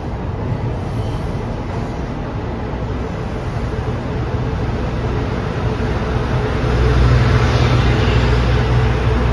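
Electric-locomotive-hauled train running past with a steady low rumble and hum, growing louder about seven seconds in.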